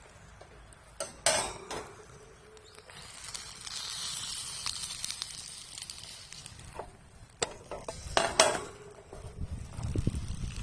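Gyoza sizzling in a frying pan over a campfire, the hiss swelling about three seconds in and easing off later. Two sharp metal clanks of pan or utensil, one near the start and one near the end.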